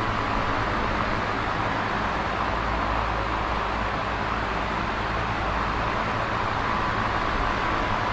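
Electric fan running steadily: an even whooshing air noise with a low motor hum underneath.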